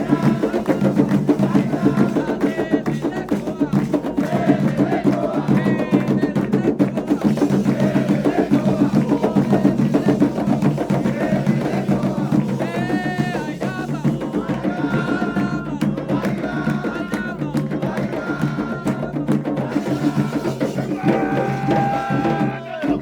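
Candomblé ritual music: drums and a hard, clacking percussion beat keep a fast, steady rhythm under voices singing.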